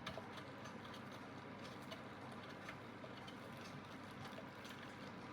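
Aidoo 1 kg mini washing machine running mid-cycle, ahead of its final spin: a faint steady hum with scattered light clicks.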